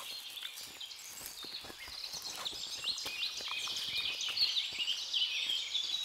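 Songbirds singing, a busy mix of quick high chirps and trills that grows louder from about two seconds in, over soft scattered ticks and rustles.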